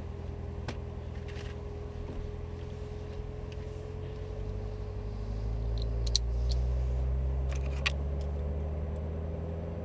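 Chevrolet Corvette C7 Z06's supercharged 6.2-litre V8 running at low revs, heard from inside the cabin as the car creeps forward; the engine note grows louder about five seconds in as it pulls away. A few light clicks.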